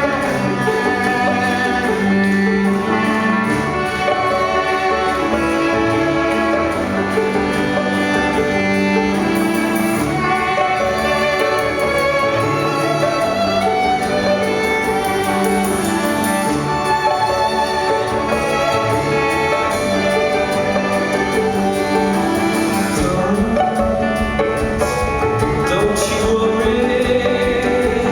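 Live band music: an instrumental passage of a rock song, led by bowed violin over sustained chords.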